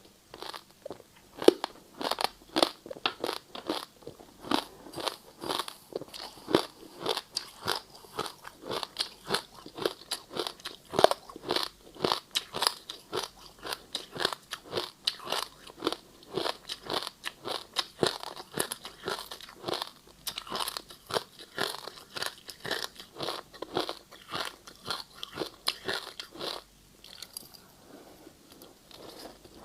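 A person biting and chewing ice in a rapid run of sharp crunches, several a second, going quieter with fewer crunches near the end.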